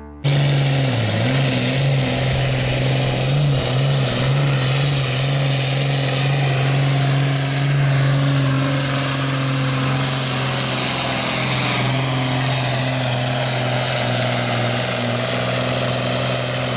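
Modified hot farm tractor's diesel engine running at full throttle under the load of a pulling sled. Its pitch sags and wavers in the first few seconds, then holds steady.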